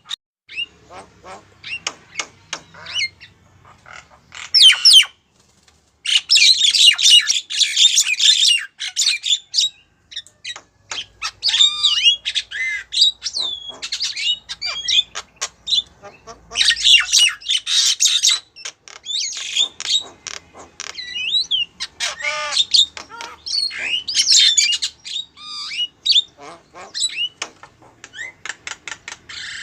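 Female Javan myna calling: harsh squawks, rapid clicking chatter and short whistled notes in repeated bursts with brief pauses, a call used as a lure to attract males.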